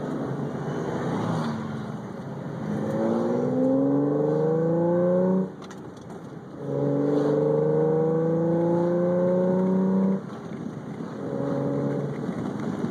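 A loud multi-tone air horn sounding two long blasts and then a short one, its chord of tones creeping up in pitch during each blast, over a steady background of running vehicles.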